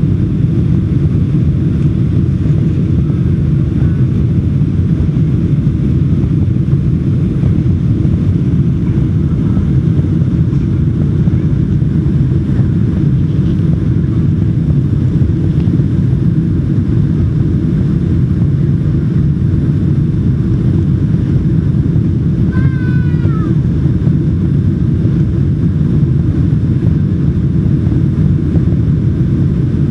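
Boeing 747-400 climbing out after takeoff: a loud, steady low rumble of engine and airflow noise that hardly changes. A brief faint warbling sound comes through about three-quarters of the way in.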